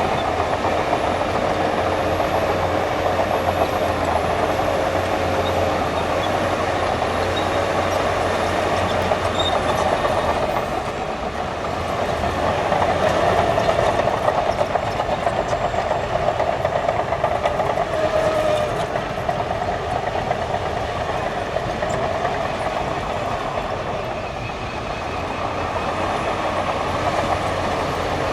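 Crawler bulldozer working: diesel engine running with steady clatter from its steel tracks, easing off and picking up again a couple of times.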